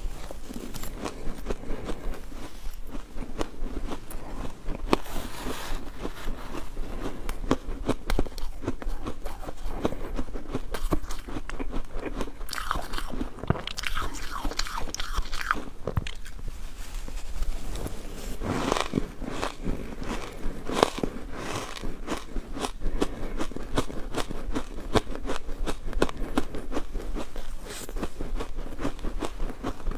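Ice being bitten and chewed close to the microphone: a steady run of sharp, crunchy cracks and crackles, denser in a few bursts as fresh pieces are bitten.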